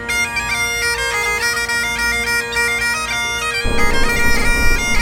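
Bagpipes playing a tune: a stepping high melody over steady low drones. About three and a half seconds in, a low rushing noise joins underneath while the pipes carry on.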